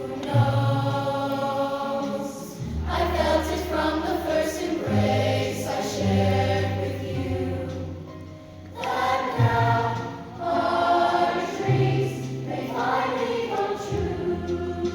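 A choir singing in sustained phrases over steady low notes, the sound dropping back briefly about eight seconds in before the next phrase.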